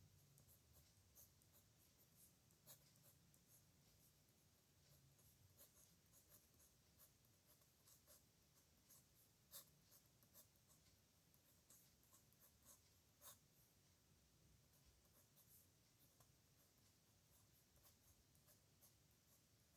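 Pen nib scratching faintly on paper in irregular short strokes during handwriting, with a few sharper ticks, the loudest about halfway through.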